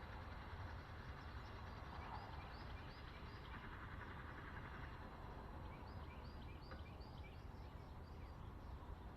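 Faint birdsong: short, quick chirping notes repeated in runs, twice, over a steady low rumble.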